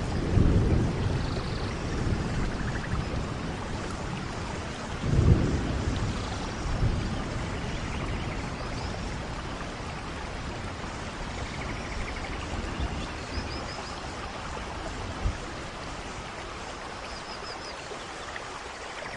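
Steady rain with low rolls of thunder, the strongest near the start and about five seconds in, easing to rain alone in the second half.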